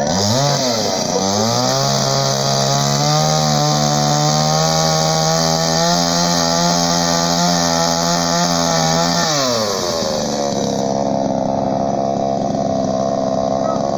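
Chainsaw engine revving: it dips and climbs in pitch twice, holds at a steady high speed for about seven seconds, then drops to a lower steady speed about ten seconds in.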